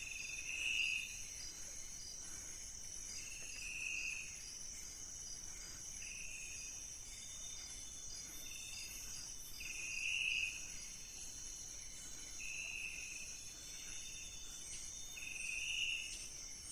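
Night tropical forest chorus: insects keep up a steady high-pitched trill. Over it, an unseen animal gives a short call about every three seconds, six times.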